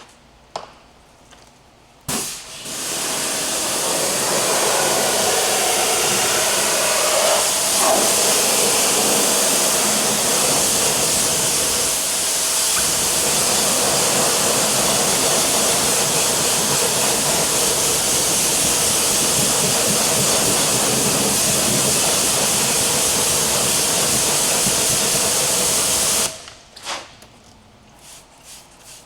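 Loud, steady hiss from a car-washing tool driving a jet of air or water. It switches on about two seconds in, builds over a second or two, holds evenly and cuts off near the end.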